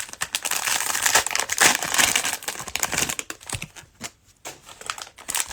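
Cellophane wrapper of a trading-card cello pack crinkling and tearing as it is handled and opened. The crinkling is a dense run of fine crackles with a brief pause about four seconds in.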